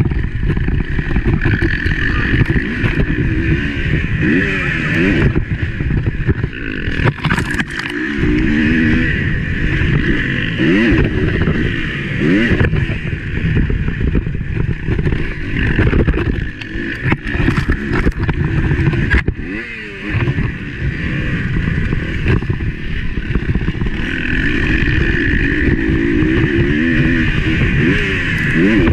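Motocross bike engine heard from on board, revving up and dropping off again and again as the rider works the throttle and gears. There are a few sharp knocks from the ride.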